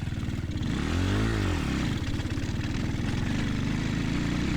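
Dirt bike engine running, revved up and back down once about a second in, then holding a steady lower speed.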